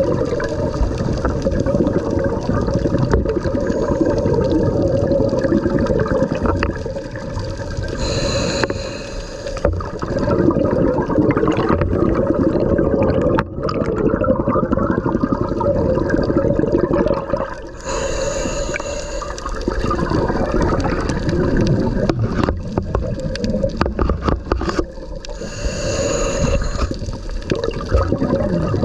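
Underwater water noise, steady churning and gurgling, with brief louder surges of bubbling hiss about every eight or nine seconds.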